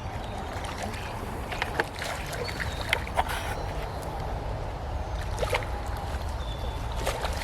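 Outdoor river sound: steady low rumble of moving water and wind on the microphone, broken by a few short, sharp splashes or knocks.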